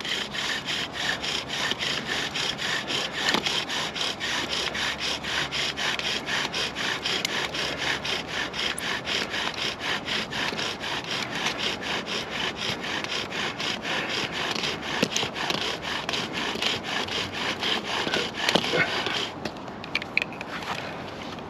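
Bow drill worked in rapid, even back-and-forth strokes, the wooden spindle grinding in the hearth board to build friction for an ember; the strokes stop near the end.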